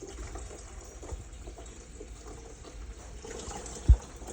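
Water being poured from a container into a coffee maker's water tank, a steady trickle, with one loud low thump near the end.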